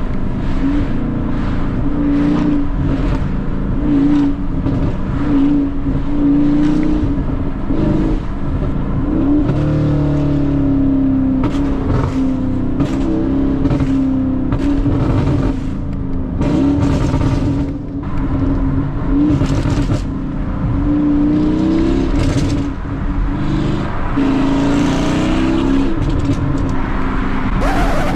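Car engine being driven hard through a manual gearbox, its note rising and falling again and again as it accelerates and shifts.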